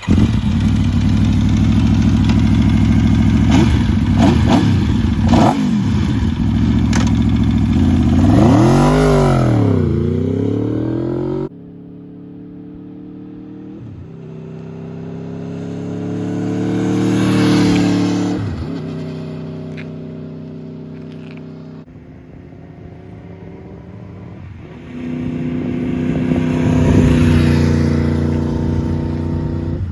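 Sport-bike engine and exhaust, loud, in three edited clips. First it runs steadily with a rev that rises and falls near the end of the clip. Then a sound swells up and fades away, and finally the revs jump up and hold before easing off.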